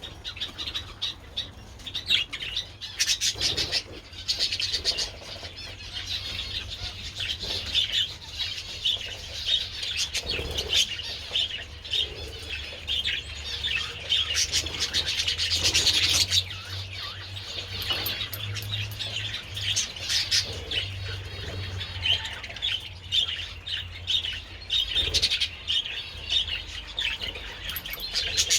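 A flock of budgerigars chattering and warbling nonstop, a dense mix of short chirps and twittering, with wings fluttering now and then.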